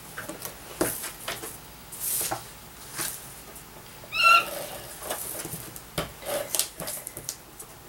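A cat meows once, short and high-pitched, about four seconds in, amid light clicks and rustles of paper pieces being handled.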